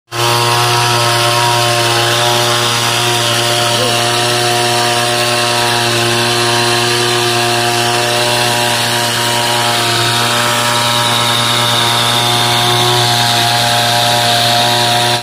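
Small engine of a knapsack power sprayer running steadily at high speed, a loud even buzz that cuts off suddenly at the end.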